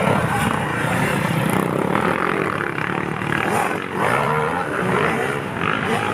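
Dirt bike engines running on a motocross course, a continuous engine drone with rising and falling pitch as riders go through the throttle.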